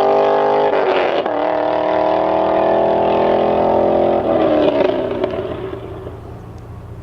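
Chevrolet Corvette C6 Z06's 7.0-litre LS7 V8 exhaust under hard acceleration, rising in pitch, with a gear change about a second in before it pulls again. About four seconds in it comes off the throttle, the pitch drops and the sound fades.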